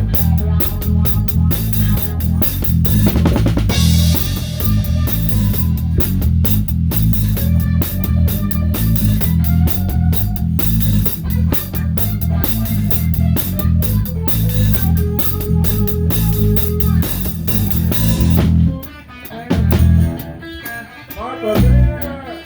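Live rock band playing: a Pearl drum kit with a towel-damped snare driving a steady beat under bass and electric guitar. About nineteen seconds in the band drops out to a break of single hits and sliding guitar notes, and the beat comes back in near the end.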